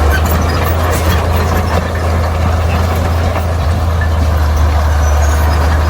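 Bulldozer's diesel engine running steadily with a deep, unbroken drone, with faint scattered clicks over it.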